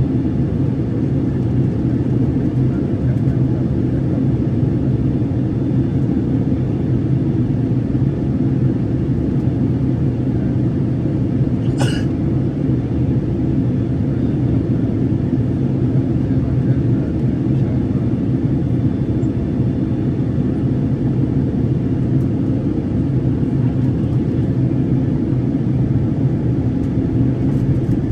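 Steady low cabin noise of an airplane in flight, engines and rushing air heard from inside the cabin. There is one short click near the middle.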